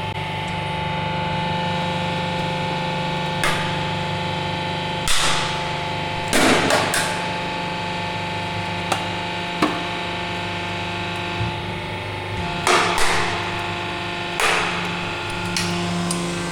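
Large hydraulic press's pump unit humming steadily, with a handful of sharp, irregular knocks and cracks breaking in over it.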